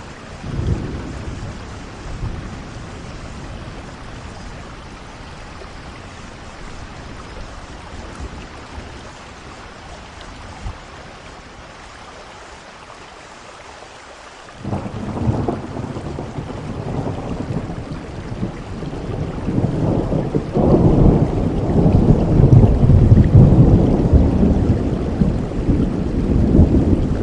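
Steady rain with rolling thunder: a short rumble about a second in, then about halfway a heavy low rumble breaks in suddenly and builds, loudest near the end.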